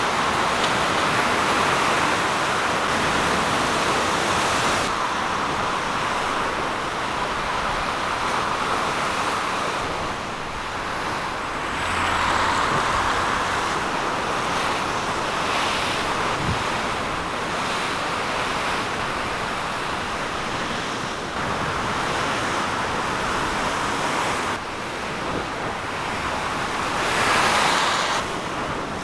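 Continuous rush of turbulent water that swells and fades, with a few sudden shifts in level and some wind on the microphone.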